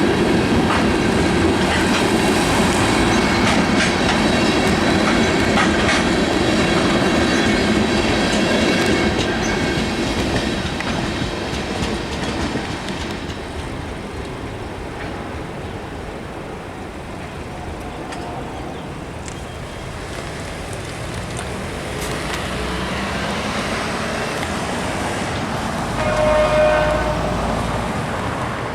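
Long Island Rail Road train passing close by, wheels clacking over the rails, the noise easing off after about ten seconds as it goes away. Near the end there is a short horn toot of about a second and a half.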